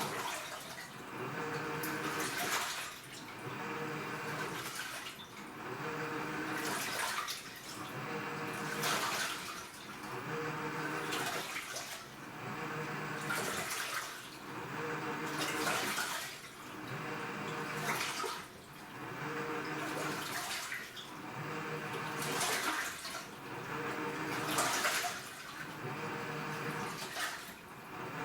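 AQUA washing machine agitating its load: the direct-drive inverter motor hums in short strokes while the water churns and sloshes. The pattern repeats about every two seconds, as the wash reverses direction.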